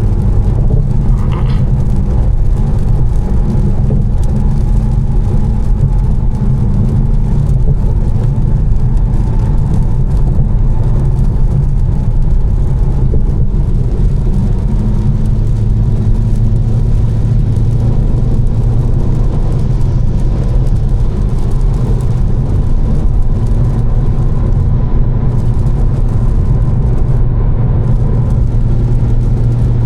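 Tuned BMW M4's twin-turbo inline-six, with catless downpipes and an aftermarket exhaust, running at a steady cruise with only small shifts in pitch. Tyre and road noise from wet pavement runs underneath.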